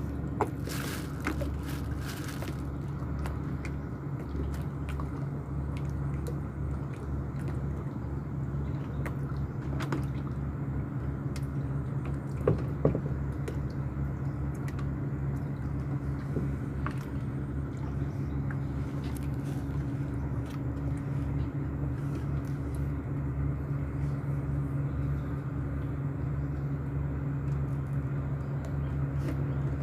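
An engine running steadily at constant speed, a low even drone, with a couple of sharp knocks about halfway through.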